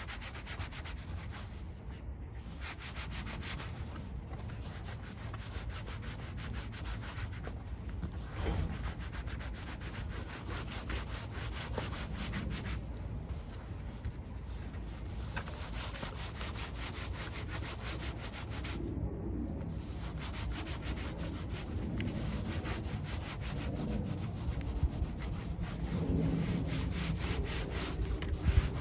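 Hand scrubbing of a sprayed truck part, repeated back-and-forth rubbing strokes working ground-in dirt loose.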